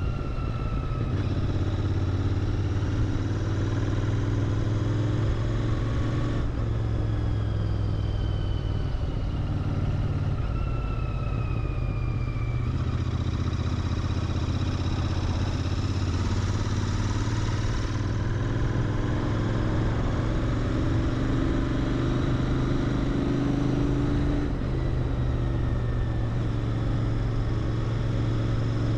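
Royal Enfield Interceptor 650's parallel-twin engine running through its stock mufflers while riding on the road. The engine note is steady and low, and its pitch falls and rises several times as the speed changes.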